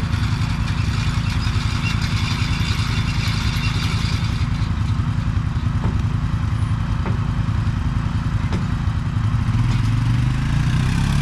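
Mini excavator's diesel engine running steadily, with a hiss over the first few seconds and a few light knocks in the middle as it digs and loads dirt. The engine note strengthens near the end.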